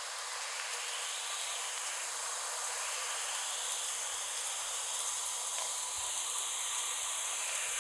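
Heavy rain pouring down, an even, unbroken hiss.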